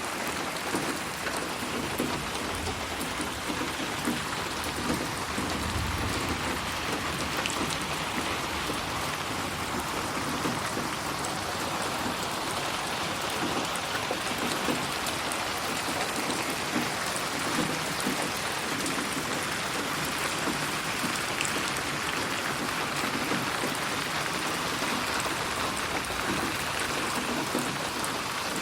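Steady rain falling and pattering on a surface, a continuous even hiss with scattered individual drop ticks and a brief low rumble about six seconds in.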